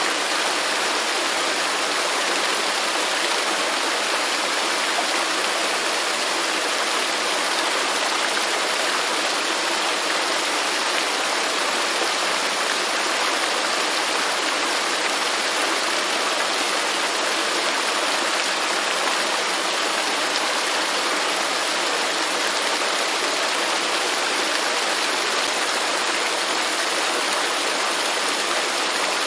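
Waterfall: a steady, even rush of falling water, with most of its sound in the upper range and little low rumble.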